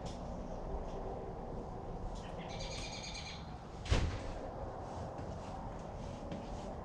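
A bird calls in a short burst of high chirps a little over two seconds in, over steady low background noise. About four seconds in there is a single sharp knock, the loudest sound.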